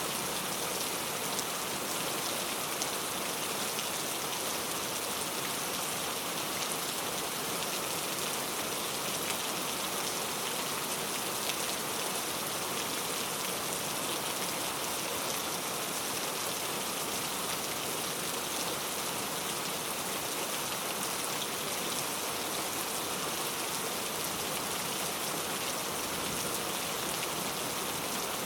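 Steady rain falling on a surface: an even, dense hiss with scattered drop ticks, unchanging throughout.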